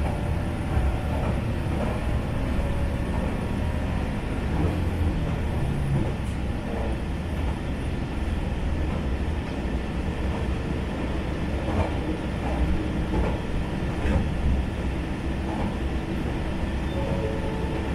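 Steady low rumble of a diesel railcar running along the line, heard from inside the car, with a few faint clicks at irregular intervals.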